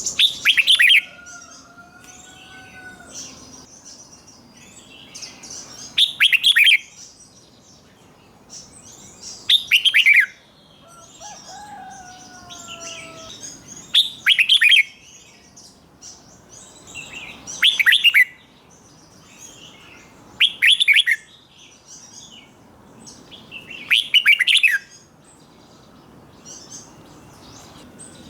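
Red-whiskered bulbul singing its short, loud, bubbling song phrases, one about every four seconds, with quieter chirps between them. A faint gliding whistle sounds twice, near the start and about halfway through.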